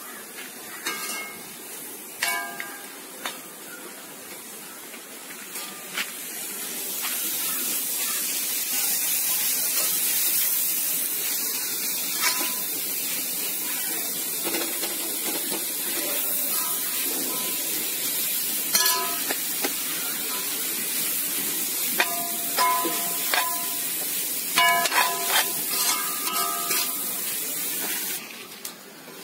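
Sliced onions with green chillies and curry leaves sizzling in hot oil in an aluminium wok, sautéing with salt to soften, while a ladle stirs and scrapes the pan. The sizzle grows louder about six seconds in, and short clinks and scrapes of the ladle come mostly near the end.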